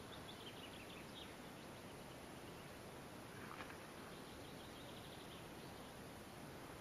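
Faint birds calling and twittering over a steady low outdoor hiss: short chirps and trills, with one louder call dropping in pitch about halfway through.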